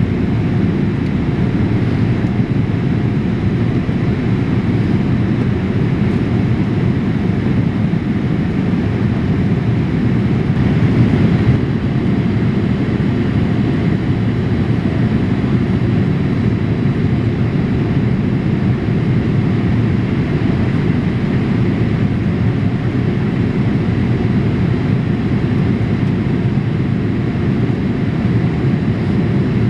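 Steady cabin noise inside a Boeing 787-8 airliner in flight, a constant low rush of engine and airflow, with a brief slight swell about eleven seconds in.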